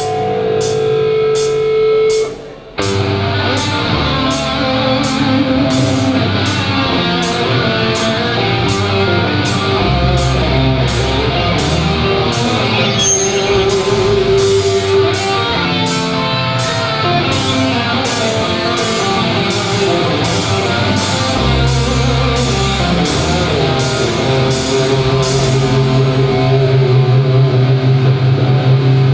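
Hardcore punk band playing live, instrumental: held guitar notes ring for about two and a half seconds, then the full band comes in with distorted guitars, bass and drums, cymbals keeping a steady beat.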